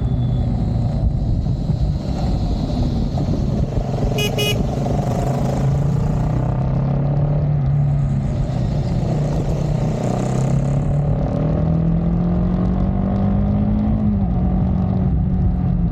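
Triumph Speed 400's single-cylinder engine and exhaust running steadily under way, its pitch rising slowly near the end and dropping suddenly as the throttle eases or a gear changes. A short vehicle horn toot sounds about four seconds in.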